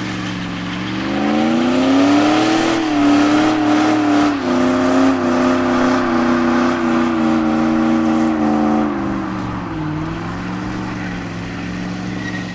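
A car engine revving: it runs steadily, climbs in pitch about a second in, holds at higher revs for several seconds, then drops back down near the end.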